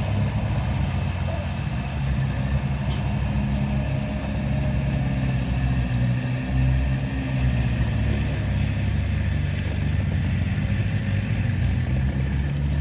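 Heavy diesel engine of earthmoving machinery running steadily under load, with a low, even engine note.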